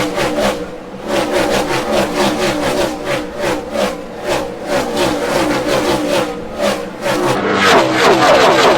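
NASCAR Cup stock cars' V8 engines at racing speed, the sound swelling and falling about twice a second with gliding pitch as cars go past one after another. It grows louder near the end.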